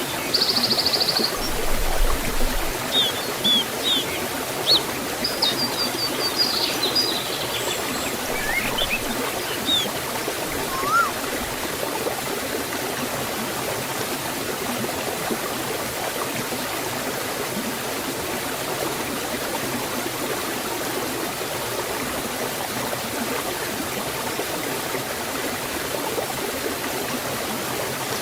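Waterfall and forest stream: a steady rush of flowing water. Small birds chirp and whistle over it through the first ten seconds or so.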